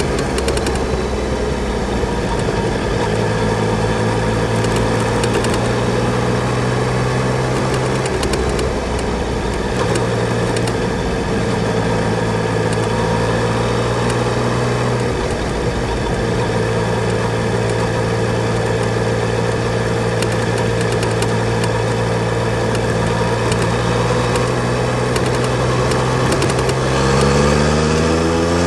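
Yamaha Tracer 900 GT's 847 cc inline-three engine running at a steady engine speed, then revving up with a rising pitch near the end.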